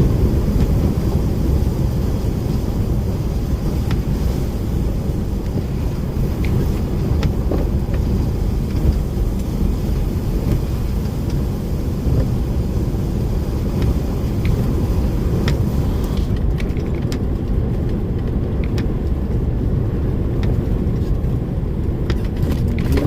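DAF lorry driving along, heard from inside the cab: a steady low engine and road rumble, with occasional faint ticks.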